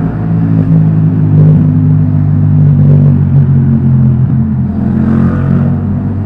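Yamaha MT-07's parallel-twin engine through an Akrapovic titanium exhaust, running at steady revs while riding.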